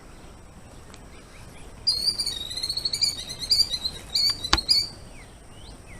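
Killdeer giving a fast, trilling run of high repeated notes for about three seconds, starting about two seconds in: the alarm call of a nesting bird at a person near its eggs. A single sharp click sounds near the end of the calling.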